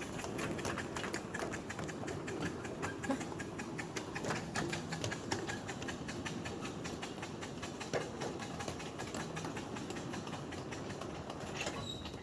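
Miniature live steam train running on 5-inch gauge track, with a rapid run of clicks from wheels and running gear over the rails.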